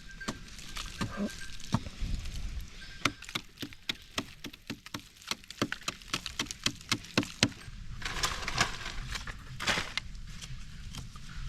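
A rapid series of sharp chopping strikes, about three or four a second, followed near the end by a couple of seconds of scraping and rustling.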